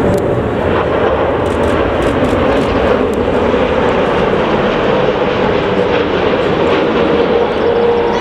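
Jet airliner engines running, a loud steady rush with a droning hum that dips slightly in pitch near the end.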